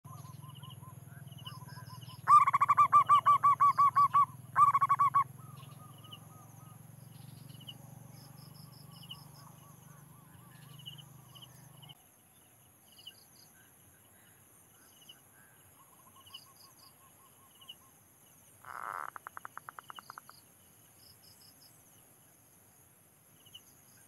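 Birds calling: a loud, fast run of repeated notes comes twice in the first few seconds, with scattered short high chirps throughout and a quieter fast pulsed call late on. A low steady hum lies under the first half and stops about halfway.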